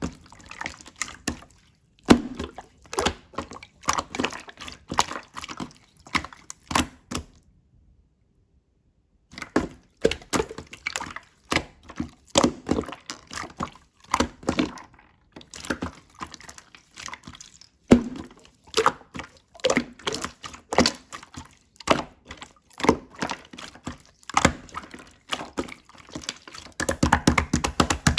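Hands squishing, pressing and poking slime, making an irregular run of wet clicks and pops, with a short silent break about eight seconds in and denser crackling near the end.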